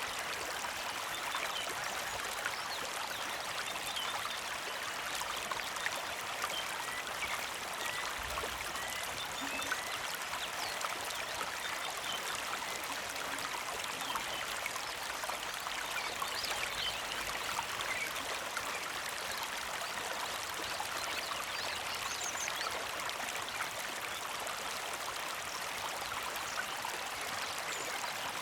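Small creek flowing and trickling steadily, a gentle, even water sound.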